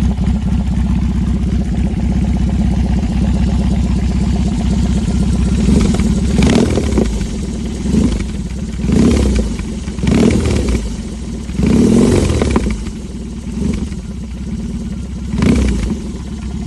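BMW R18's big air/oil-cooled boxer twin, breathing through a custom slash-cut full exhaust system, idling with a lumpy, even beat. From about five and a half seconds in it is revved in about six short throttle blips, each falling back to idle.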